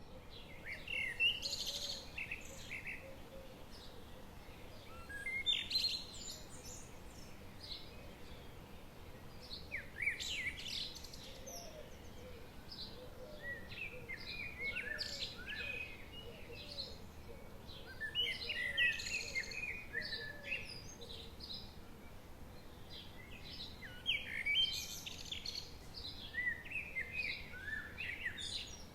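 Forest songbirds singing and chirping in repeated flurries of quick, high, gliding notes every few seconds, over a faint steady background hiss.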